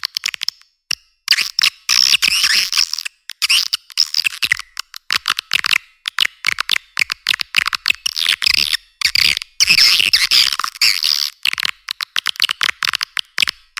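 Swiftlet lure-call recording: dense, rapid chattering twitters of swiftlets in bursts of a second or two, broken by short silences, thin with no low end. It is a calling sound played to draw swiftlets into a nest house, mixed with chick-response calls.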